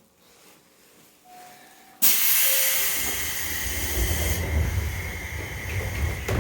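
Sudden loud hiss of compressed air from a Seibu 101 series train about two seconds in. The hiss eases after a couple of seconds into a low rumble that ends in a thud near the end.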